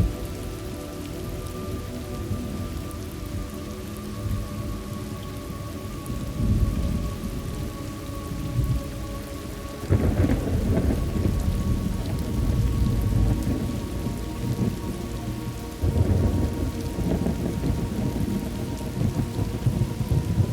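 Thunderstorm ambience: steady rain with rolling thunder. A loud rumble breaks in suddenly about halfway through and another about three-quarters of the way in.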